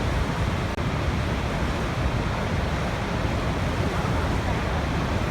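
Waterfall rushing: a steady, unbroken roar of falling water, heavy in the low end.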